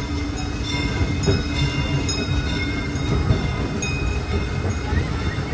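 Disneyland Railroad train running along the track, heard from aboard a passenger car: a steady low rumble of wheels on rail, a thin steady whine, and scattered faint clicks.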